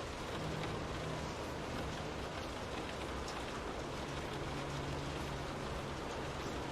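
Steady rain falling, an even hiss of water with scattered individual drops ticking. A faint low hum comes and goes under it.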